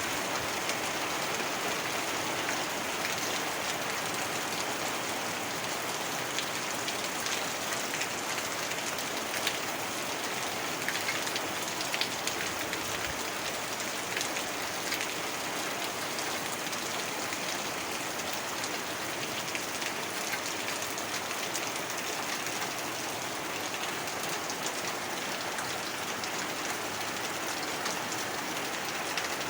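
Heavy rain falling steadily: a dense, even hiss of rain with many individual drops ticking sharply on a surface.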